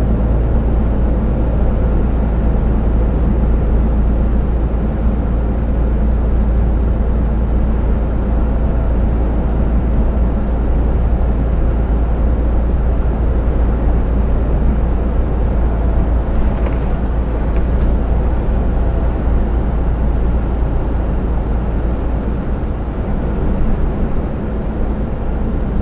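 Iveco truck cruising on the motorway, heard from inside the cab: a steady low drone of engine and road noise.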